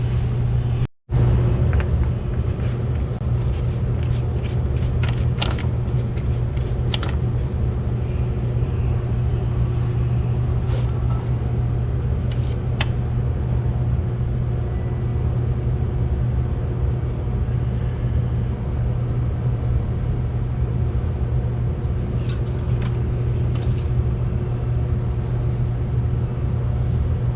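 Yamaha G29 golf cart's gas engine running steadily with a low drone, with a few light clicks over it and a brief cut-out about a second in.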